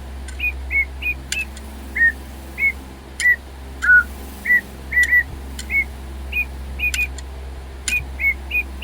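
DigiBird robot toy bird whistling a song of short chirpy notes, about one or two a second, mostly at one pitch with a lower note about four seconds in, with a few faint clicks between them. It is running on nearly flat batteries.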